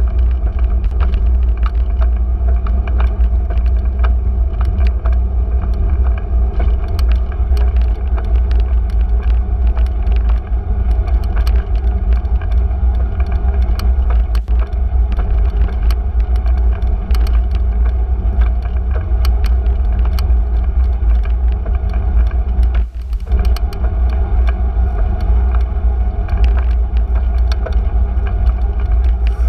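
Bicycle riding along city streets: a steady low rumble with a few steady hum bands and frequent small rattling clicks, dropping away briefly about three quarters of the way through.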